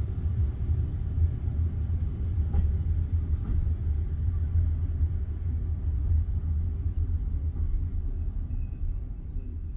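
Steady low rumble of a passenger train heard from inside a carriage, without any regular clacking of wheels over rail joints. Faint, thin high tones come in from about three and a half seconds.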